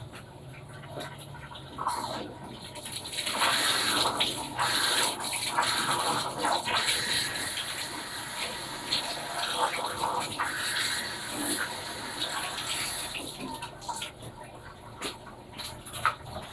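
Water gushing into a Panasonic washing machine's tub as it fills. The rush swells in about three seconds in and eases near the end, over a steady low hum.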